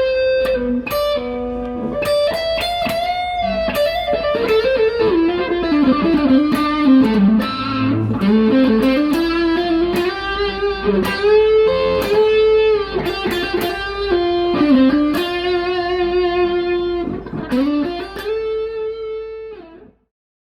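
PRS SE McCarty 594 Singlecut electric guitar, with its humbucker pickups, playing a lead melody with string bends. It ends on a held note that stops near the end.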